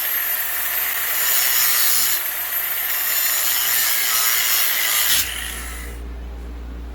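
Handheld power tool, most likely an angle grinder, grinding steel with a steady harsh rasp. About five seconds in it is switched off and winds down with a brief falling whine, leaving a low hum.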